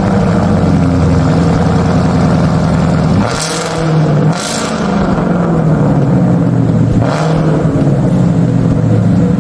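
Engine of a 2016 Ford Mustang revving loudly through a freshly installed Borla ATAK cat-back exhaust. The note drops briefly a little after three seconds in, then builds back up, with a few short, sharper blasts along the way.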